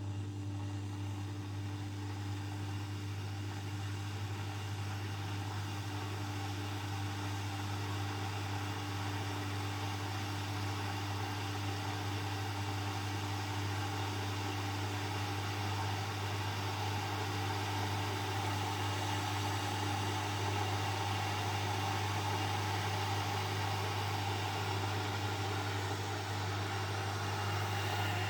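Electric coffee cezve heating its water and coffee: a steady low hum under a hiss that slowly grows louder as it nears the boil.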